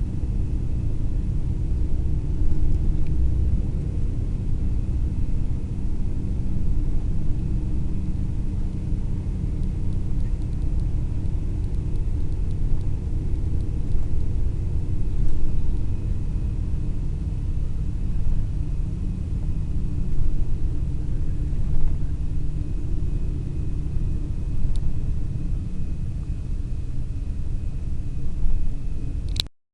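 Cabin of a long-distance sleeper coach under way: steady low rumble of engine and road, with a faint thin whine held above it. The sound breaks off abruptly just before the end.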